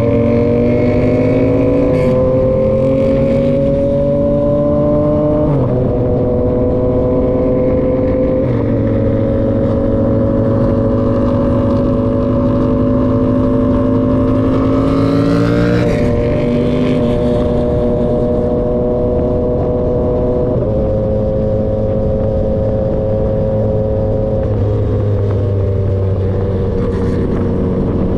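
Yamaha XSR900's inline three-cylinder engine through an SC-Project CRT exhaust, running under way at a fairly steady pace. The engine note holds for several seconds at a time, then steps in pitch four times as the revs change. A rushing hiss builds to about halfway and falls away as the note drops.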